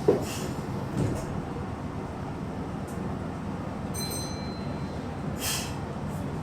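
Meitetsu electric train's doors shutting with a thump, then the train's steady low rumble. A smaller knock comes about a second later, and a brief high tone sounds about four seconds in.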